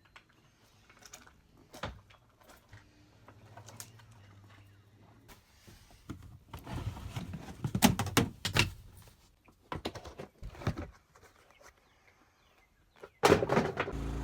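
Scattered knocks and thunks of objects being handled and set down, with a louder cluster about seven to nine seconds in and another burst near the end.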